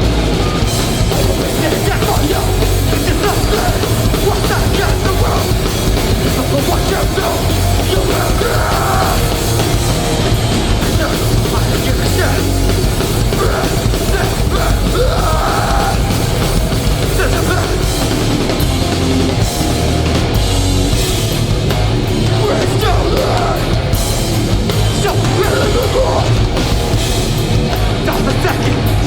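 Hardcore band playing live at full volume: heavy, distorted music with a strong, steady low end.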